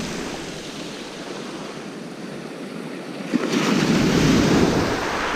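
Sea waves washing onto the beach, with one wave swelling louder and breaking a little after three seconds in, and some wind on the microphone.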